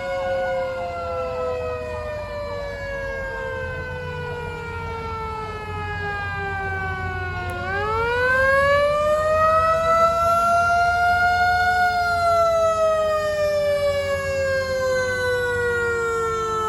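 Fire truck siren with a slow falling wail. About halfway through it winds sharply back up to a higher pitch, then slowly falls again, with a vehicle engine rumbling underneath.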